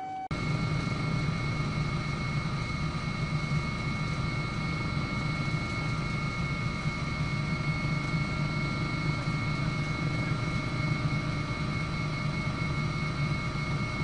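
Shinkansen bullet train running at speed: a steady rumble with several steady, high whining tones over it. It cuts in abruptly just after the start and holds an even level throughout.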